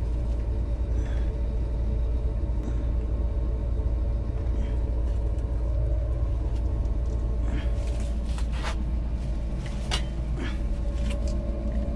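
A steady low rumble, with a few light knocks and clicks late on from PVC pipe and fittings being handled.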